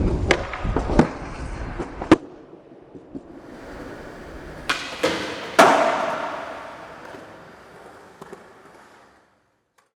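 Skateboard wheels rolling on concrete with sharp clacks of the board striking the ground. About five seconds in comes a second set of hard impacts, with noise that fades away by about nine seconds.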